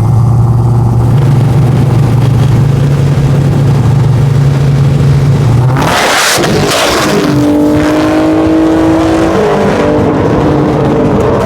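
Vehicle engine held at a steady high rev for about six seconds, then a loud rush of noise about six seconds in, after which the engine note climbs and changes pitch as it pulls hard.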